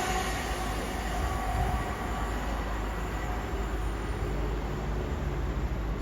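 A train moving away along the track, its noise dying down to a steady low rumble.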